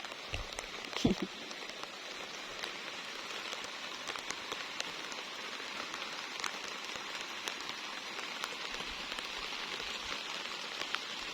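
Steady rain falling, an even hiss with scattered ticks of single drops striking close by. A soft thump about a second in.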